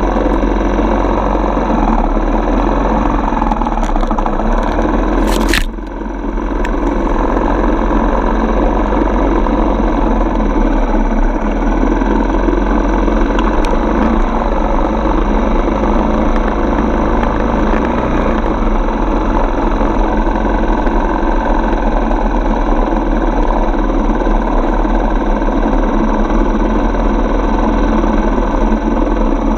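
Dirt bike engine running steadily while riding. There is one sharp knock about five and a half seconds in, then a brief dip in the engine sound.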